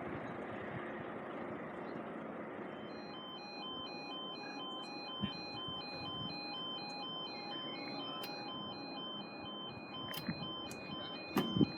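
Level crossing warning alarm starting about three seconds in: an electronic two-tone warble alternating steadily between a higher and a lower note, the signal that the barriers are about to come down for an approaching train. A steady low rumble of background noise lies beneath it, with a couple of short thumps.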